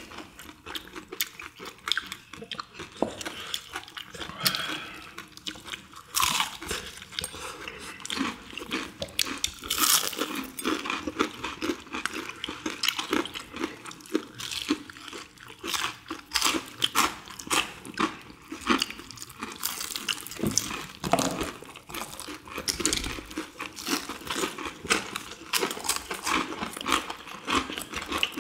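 Several people biting into and chewing crispy deep-fried chicken coated in perilla-leaf batter: a dense, irregular stream of crunches.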